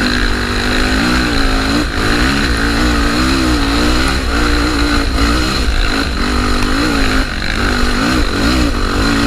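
Trail motorcycle engine running under load, its pitch rising and falling again and again as the throttle is worked.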